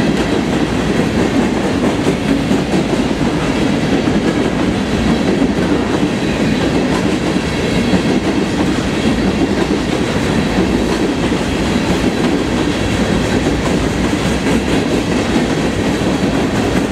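Work train rolling steadily past, a continuous noise of its cars' wheels running on the rails with no let-up.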